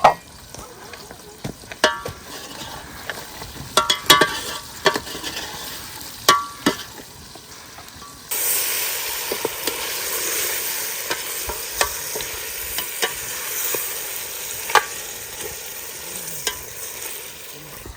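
Metal utensil clinking against a cooking pan several times, then from about eight seconds in a sudden, steady sizzle of food frying in hot fat, with scattered pops.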